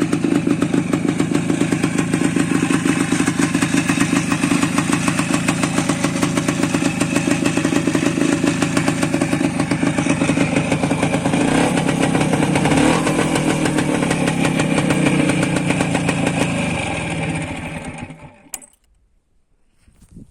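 Tula TMZ motorcycle's two-stroke single-cylinder engine running steadily with a fast pulsing beat, its pitch shifting briefly about two-thirds of the way through. The engine then dies away and stops near the end, followed by a single click.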